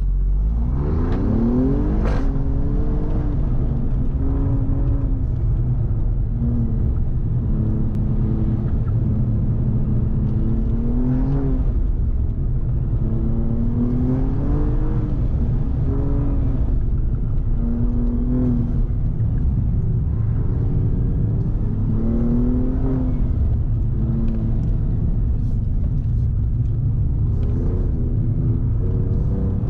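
Alfa Romeo Giulia Quadrifoglio's twin-turbo V6, heard from inside the cabin on an autocross run. It launches hard, with the engine pitch climbing steeply in the first two seconds. The revs then rise and fall again and again as the car accelerates and lifts through the course.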